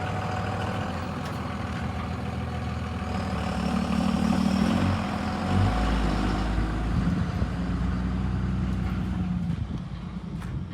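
Large truck engine running, growing louder around four seconds in and then settling back.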